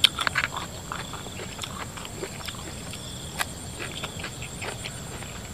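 Close-up chewing and lip-smacking of a man eating spicy raw shrimp with fresh vegetables: a quick cluster of wet smacks about half a second in, then scattered softer clicks as he keeps chewing. Insects trill faintly behind.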